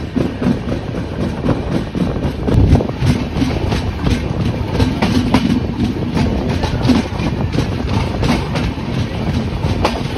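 Pawan Express passenger train running on the track: a steady rumble with wheels clacking over the rail joints again and again.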